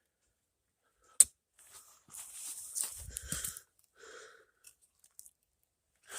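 A sharp snap about a second in, then crunching and rustling for a second and a half, a shorter patch of rustling about four seconds in, and more rustling at the very end: close handling noise as a bird trap is being set.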